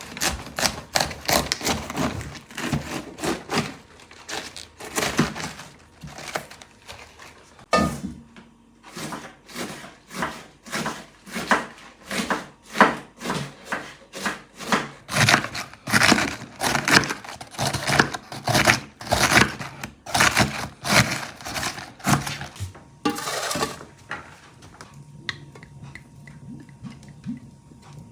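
A quick, irregular series of sharp knocks on wood, about two to three a second, that stops about 23 seconds in.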